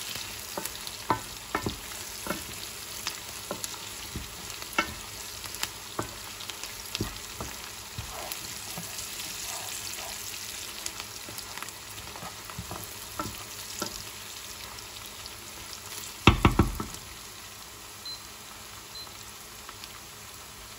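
Sliced onions and red peppers sizzling in oil in a frying pan, stirred with a wooden spoon that scrapes and taps against the pan. A short cluster of louder knocks about two-thirds of the way through.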